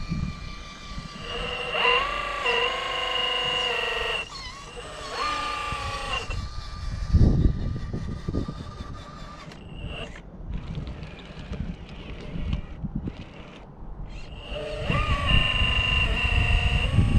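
An RC rock crawler's electric motor and gears whine in three spurts of throttle, rising in pitch as each spurt starts. Between them, wind gusts rumble on the microphone, loudest about seven seconds in.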